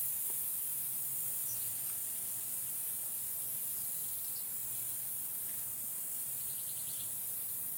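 Forest ambience: a steady high hiss with a few faint chirps, and a short rapid trill about six and a half seconds in.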